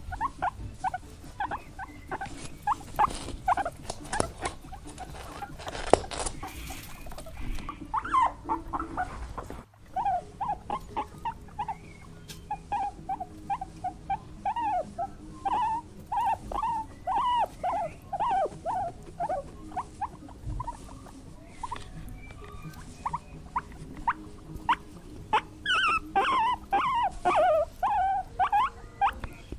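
Small animals making quick, high squeaks and whines, several a second, with a brief break about ten seconds in.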